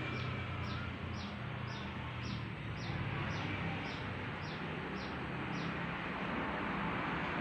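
Honda motorbike engine running steadily under a hiss, with a short high falling chirp repeating evenly about twice a second.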